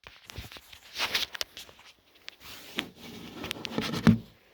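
Handling noise: scattered knocks, clicks and scrapes of things being moved, with the loudest thump about four seconds in.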